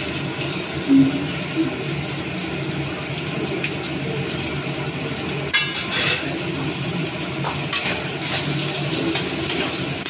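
Vegetables and egg sizzling in hot oil in a metal kadai, with a steel spatula scraping and clinking against the pan as they are stirred; a few sharper scrapes stand out around the middle and later on.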